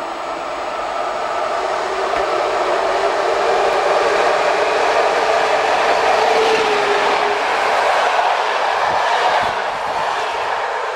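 Locomotive-hauled passenger train passing through the station along the platform. Its steady rolling noise builds as the locomotive nears, is loudest as the coaches roll past, then falls off near the end.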